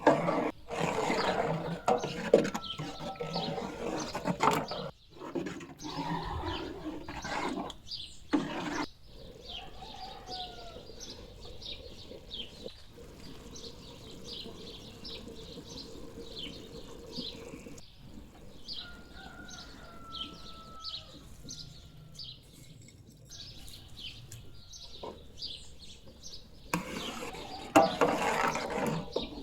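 Small birds chirping over and over, with a few short falling whistled calls among them. Louder clattering and handling noise covers them for the first several seconds and again near the end.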